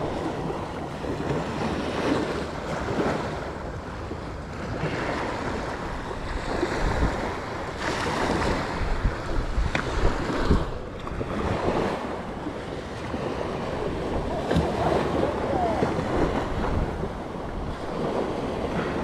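Ocean waves breaking and washing up a beach, swelling and easing, with wind buffeting the microphone.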